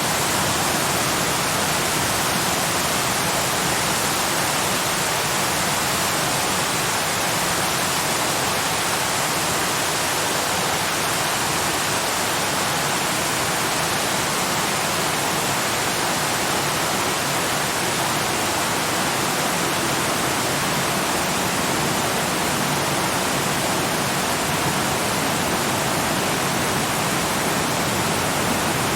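Waterfall rushing steadily: an even, unbroken hiss of falling water that does not change in level.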